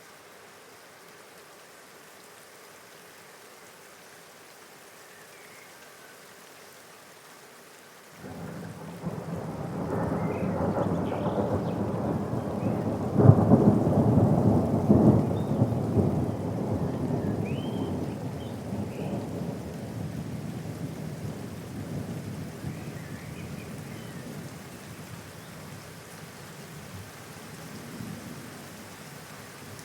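Steady rain falling, then about eight seconds in a roll of thunder starts suddenly, builds to its loudest clap some five seconds later, and rumbles away slowly over the remaining time.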